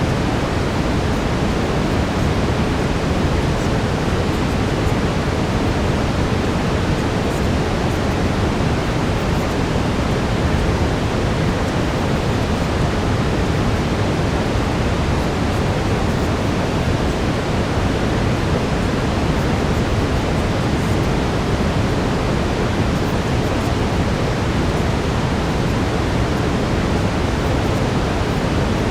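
Steady brown noise: a deep, even hiss heaviest in the bass, unchanging throughout.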